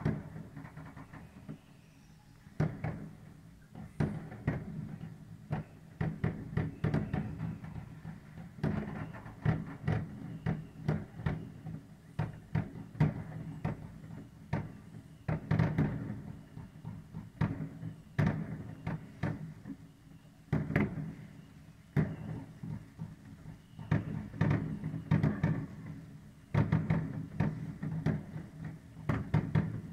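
New Year's Eve fireworks: a dense, irregular run of firecracker and rocket bangs and crackles, coming in clusters, some loud and close, others further off.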